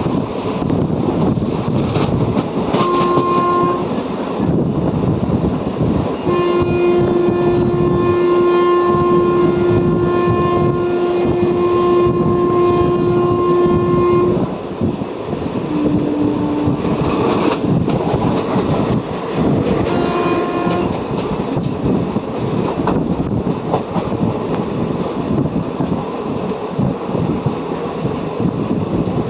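Indian Railways train running through a station without stopping, with steady wheel and wind rumble. Its horn sounds a short blast about three seconds in, a long blast of about eight seconds, then another short blast near twenty seconds.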